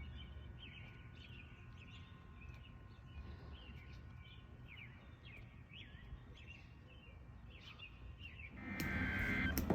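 Birds chirping faintly in short, scattered calls over a low rumble. About nine seconds in, a louder rush of noise rises and runs until the end.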